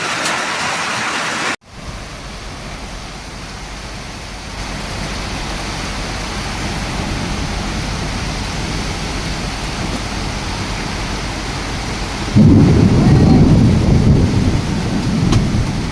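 Heavy rain falling steadily, with a brief dropout about a second and a half in. About twelve seconds in, a sudden loud low rumble of thunder sets in and carries on to the end.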